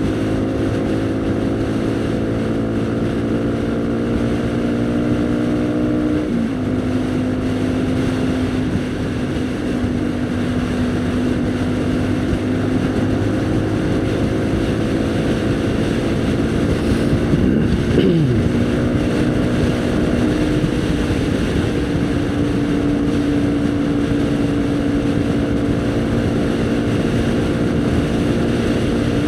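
Haojue NK150's single-cylinder engine running steadily under way, heard from the rider's position with wind noise on the microphone. The engine note dips briefly about six seconds in, and around eighteen seconds in a short pitch sweep rises and falls across it.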